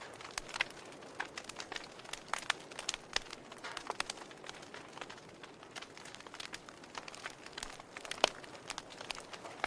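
Campfire crackling: irregular sharp pops and snaps over a low steady hiss, with one louder pop near the end.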